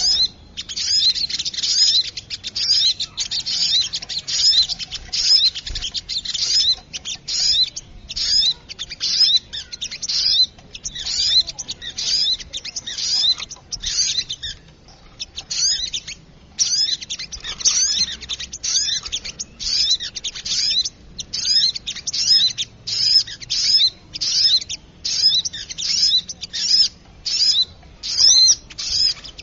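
Noisy lure recording of sogok ontong (little spiderhunter) calls: rapid, high-pitched chirping in quick runs broken by short pauses, played as a bird-trapping lure.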